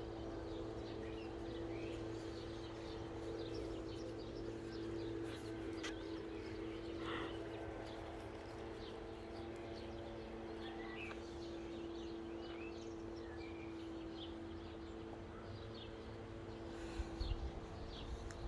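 Small birds chirping here and there in short, high calls over a steady low hum.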